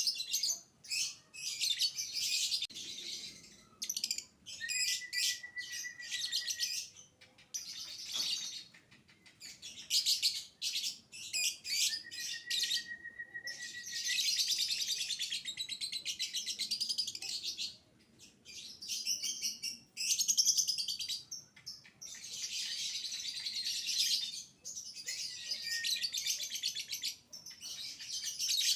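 Lovebird singing in long runs of rapid, high chattering trills broken by short pauses, with a few held whistled notes.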